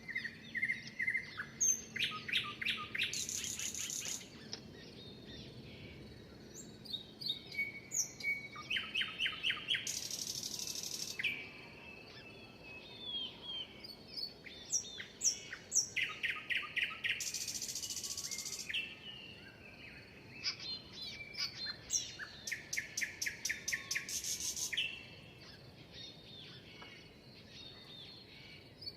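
Songbirds singing. One bird repeats a loud song four times, about every seven seconds: a quick run of clear notes ending in a buzzy, hissing trill. Softer chirps and calls from other birds fill the gaps.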